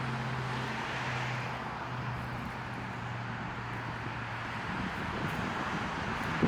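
A steady low engine hum, fading out about five seconds in, over a hiss of open-air background noise.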